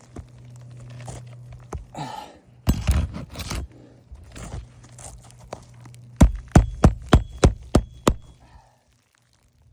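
Scraping and rustling on an asphalt shingle roof, then a quick series of about seven hammer blows, roughly three a second, during the removal and replacement of a shingle.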